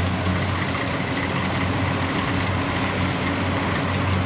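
Engine of a heavy farm machine running steadily with an even low hum.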